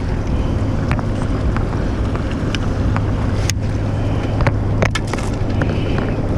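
Steady low hum under wind noise on the microphone, with scattered sharp clicks and knocks.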